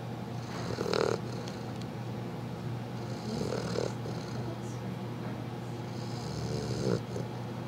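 Newfoundland puppy snoring in slow, even breaths, three in this stretch, each about three seconds apart.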